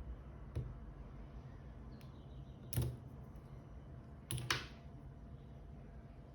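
A few sharp clicks and taps from handling small hard parts, as in working on a G-Shock watch band. A small click comes about half a second in, a louder one near three seconds, and a quick double click near four and a half seconds.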